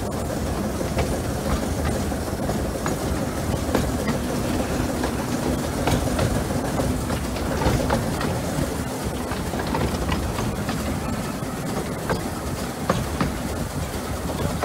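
Narrow-gauge train running along the line, heard from the locomotive footplate: a steady rumble of wheels on rail with repeated sharp clicks over the rail joints and a steady engine drone underneath.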